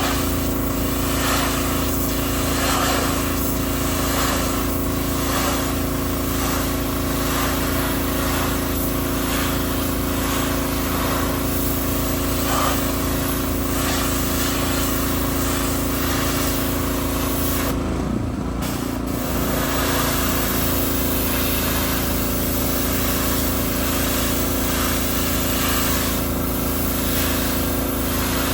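Pressure washer's small engine running steadily under the hiss of the water jet spraying. About two-thirds of the way through, the spray cuts out for about a second and the engine pitch wavers, then spraying resumes.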